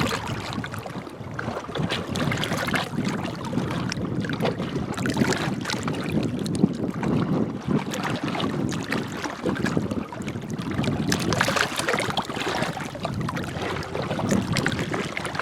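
Small waves on Green Bay lapping and sloshing against the shore, an uneven wash with many small splashes and irregular swells.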